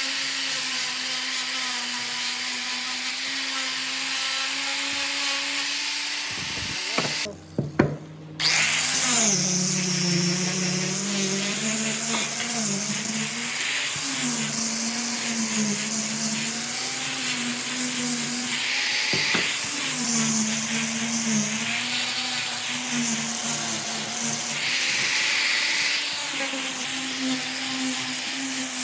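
Electric power tool motor running steadily. About seven seconds in, the sound breaks off briefly with a few clicks. Then a motor runs again with its pitch dipping and recovering again and again as it is loaded, with several bursts of hiss.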